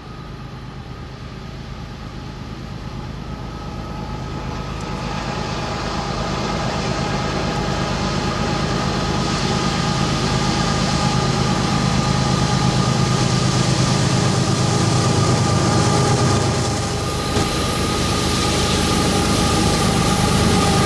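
A diesel-hauled train approaching and growing steadily louder: low locomotive engine rumble under rolling noise, with two steady high-pitched ringing tones like wheel squeal.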